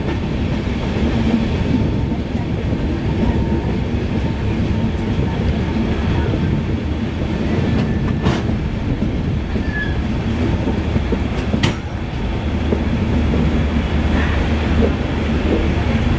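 Running noise of an LHB passenger coach in motion, heard from the coach's side: a steady rumble of wheels on rail with wind, and two sharp clicks a little past halfway and about three-quarters of the way through.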